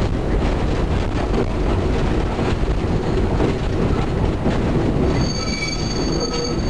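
Nanbu Jukan Railway rail bus running on the track: a steady low rumble of engine and wheels with irregular rail clicks. About five seconds in, a steady high-pitched squeal joins.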